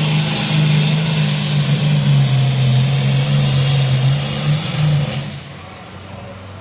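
Antique tractor engine running hard under load during a tractor pull, loud and steady, then dropping away sharply about five seconds in.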